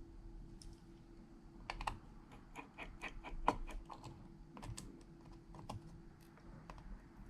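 Irregular light clicks and taps of small repair tools and parts against an iPhone's frame and components, loudest about halfway through, over a faint steady hum.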